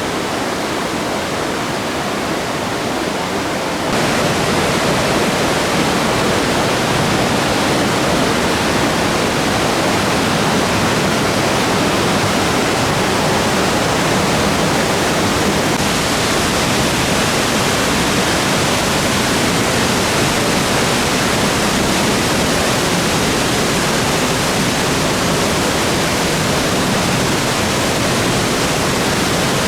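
Waterfall: a steady rush of falling water that steps up louder about four seconds in.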